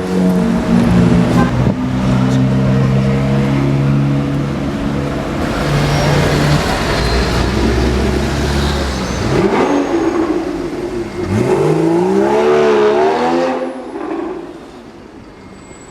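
Sports-car engine running with a steady deep hum, then revved up and down several times as the car accelerates. The revving fades away near the end.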